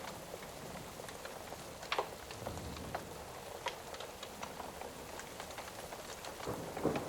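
Steady rain with the crackle of a fire: scattered sharp pops and snaps over the even hiss of the rain, a louder snap about two seconds in and another near the end.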